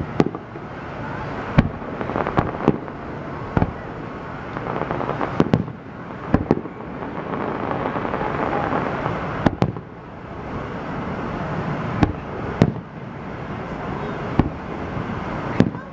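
Aerial fireworks shells bursting overhead: about a dozen sharp bangs at irregular intervals, some in quick pairs, over a steady background haze.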